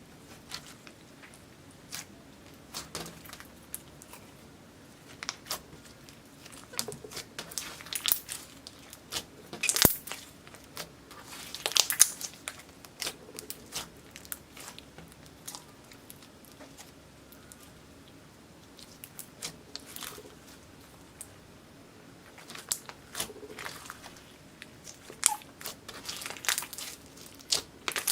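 Slime being worked by hand, with irregular sticky crackles and small pops as it is squeezed and stretched. The loudest clusters come about ten and twelve seconds in.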